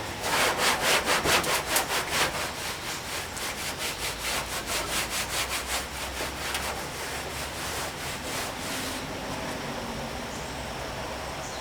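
Hand rubbing oil into the weathered paint of a 1959 VW single cab truck's steel body panel: quick back-and-forth scrubbing strokes, about four a second, growing fainter and stopping about nine seconds in.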